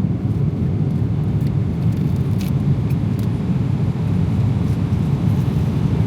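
Steady low rumble of a Boeing 777-300ER's cabin in cruise flight, with a few faint clicks.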